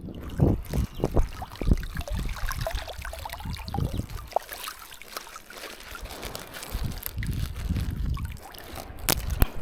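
Water splashing and sloshing in uneven surges, with scattered knocks and a couple of sharp clicks near the end.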